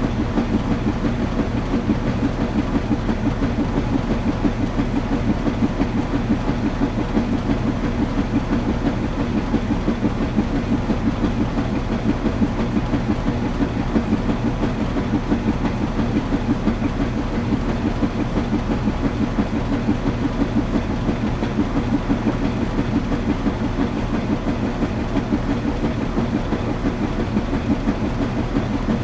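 Washing machine running steadily: a continuous mechanical rumble with a fast, even flutter and a low hum, unchanging throughout.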